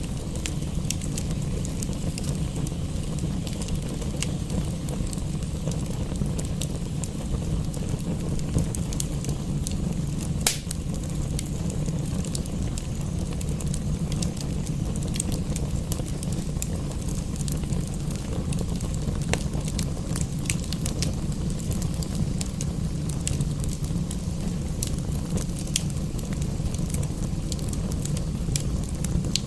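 Wood fire in a fireplace crackling, with scattered sharp pops over a steady low rumble; one louder pop comes about ten seconds in.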